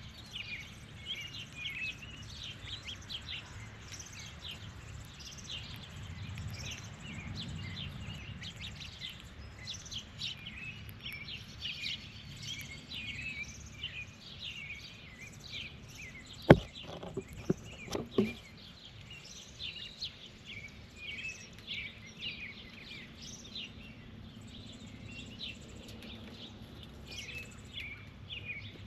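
Outdoor birds chirping over and over in quick short notes, with a faint low rumble underneath. About halfway through comes one sharp click, then a few fainter clicks over the next two seconds.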